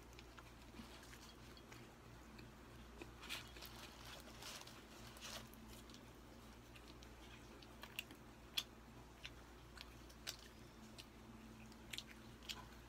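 Faint, close chewing of a McDonald's burger, with scattered soft clicks and crinkles from the burger's paper wrapper being handled.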